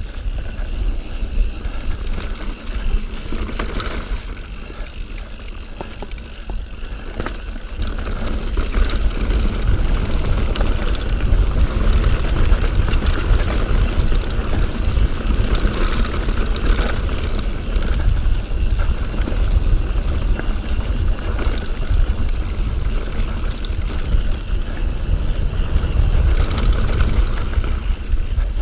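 Mountain bike descending a rough trail, its frame and parts rattling over rocks, under heavy wind buffeting on the microphone.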